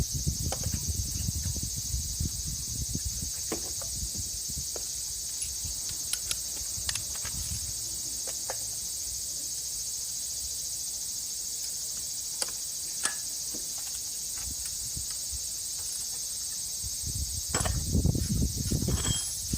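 Steady high-pitched insect chorus, with scattered sharp clicks and knocks and low rumbling handling noise near the start and again near the end.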